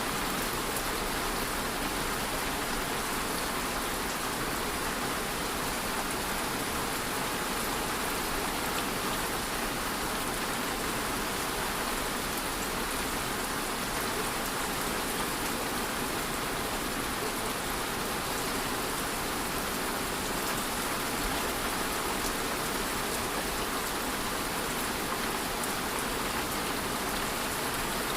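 Steady rain falling, an even hiss that holds without change, with faint scattered drop ticks.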